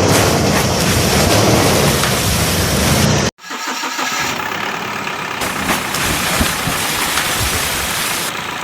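Vehicle engine running loud and rough, cut off abruptly about three seconds in, then a second, somewhat quieter engine sound running steadily.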